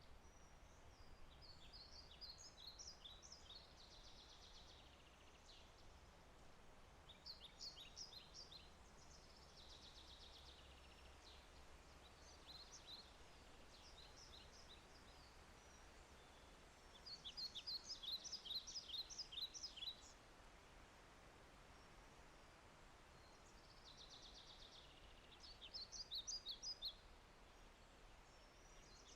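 A songbird singing short phrases of quick high notes, repeated every few seconds and loudest about two-thirds of the way through, over a faint steady background hiss.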